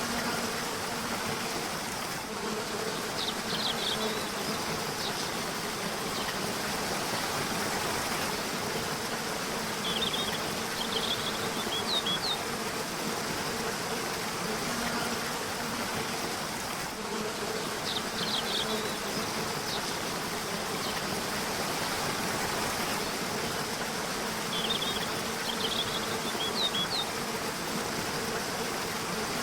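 Steady rushing of a river or waterfall, with a low buzzing hum underneath. Four times, spaced about seven seconds apart, a songbird sings a short, high run of chirps.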